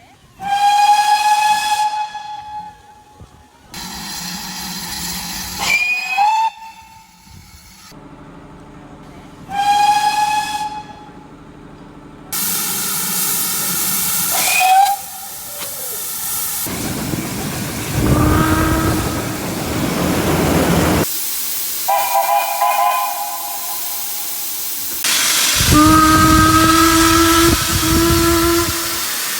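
A string of steam locomotive whistle blasts from different recordings, edited one after another. The first few are single-note whistles, two of them sliding up in pitch as they open. The later ones are chime whistles sounding several notes at once as a chord, with loud steam hiss and train noise underneath.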